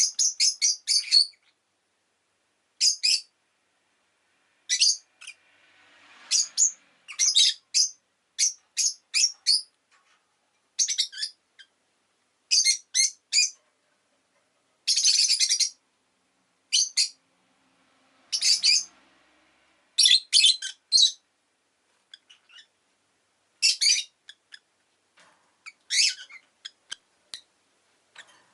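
Rosy-faced lovebird calling: sharp, high-pitched chirps in quick runs of a few at a time, separated by short pauses, with one longer, harsher call about halfway through.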